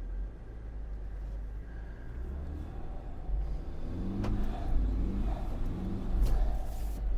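Land Rover Defender 110 engine revving under load as the vehicle claws forward out of a muddy rut on tyres let down to low pressure. The engine note grows louder about halfway through.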